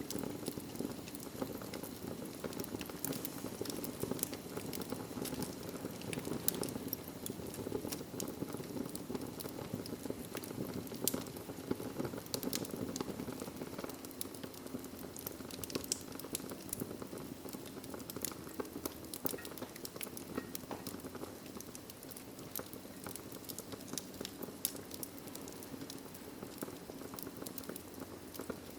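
Fireplace fire crackling: a steady low rush with frequent, irregular sharp pops and snaps.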